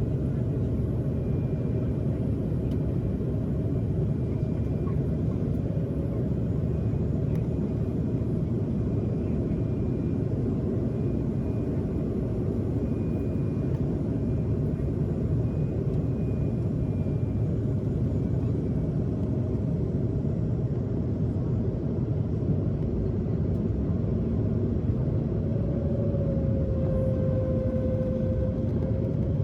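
Steady low rumble of a jet airliner's cabin in flight: engine and airflow noise heard from inside the passenger cabin during the descent.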